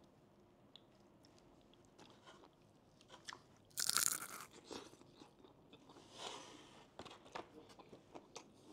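A person biting into crispy fried catfish: one loud crunch about four seconds in, then chewing with smaller crackles.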